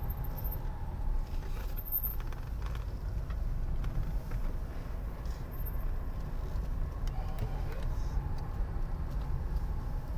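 Steady low rumble of a car driving, the engine and tyre noise heard from inside the cabin.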